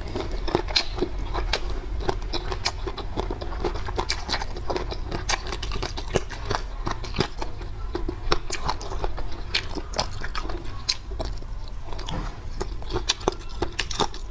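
Close-miked chewing and biting of food: many short, irregular wet mouth clicks and crunches.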